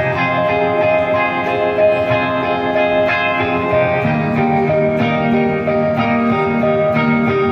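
Band music led by guitar: ringing, sustained chords, with the lower notes changing about four seconds in.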